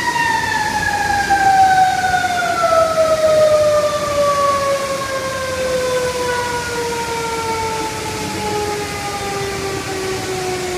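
A fire engine's siren winding down in one long, slowly falling tone, over a steady rush of noise from the gushing hydrant water.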